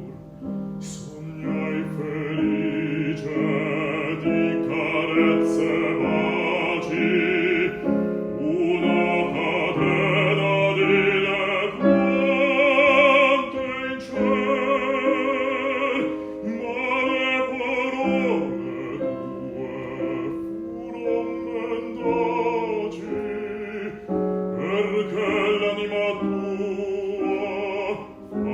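A classical art song sung by a bass voice with piano accompaniment: long held notes with vibrato.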